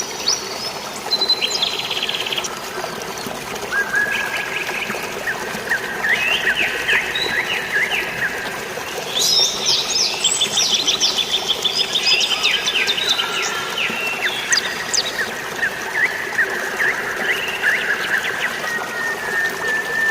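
Many birds chirping and trilling over the steady splash of flowing water, with quick rapid chirp series clustered thickest about halfway through.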